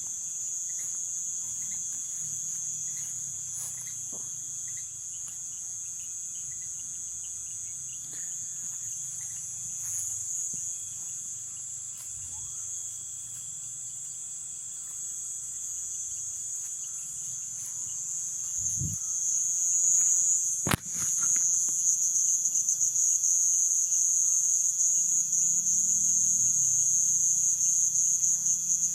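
Night insect chorus in the Amazon rainforest: a steady, high-pitched shrill drone with a fainter, lower steady tone beneath it. About two-thirds of the way through, a single sharp click is heard, and from then on the chorus is noticeably louder.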